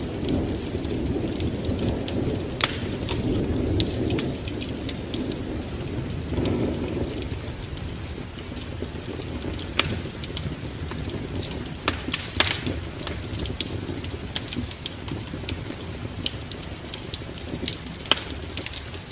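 Wood fire in a fireplace crackling and popping, with irregular sharp snaps over a steady low rumble of the flames. The rumble is heavier for the first several seconds, then eases.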